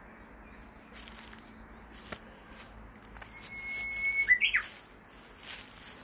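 A bird's whistled call: one held steady note for about a second, then a quick run of rising and falling notes, over a steady outdoor hiss with a few bursts of high hiss.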